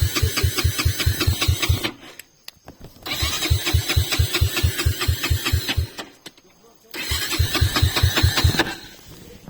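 Rusi motorcycle engine being cranked by its starter in repeated bursts of about three seconds, an even chugging of about four beats a second. Each burst stops after a short pause and is tried again without the engine catching, so the engine is failing to start.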